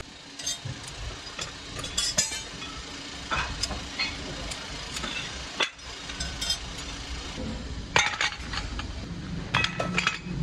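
Irregular clinks and knocks of aluminium pieces being handled and struck in a kettle workshop, over a steady low rumble.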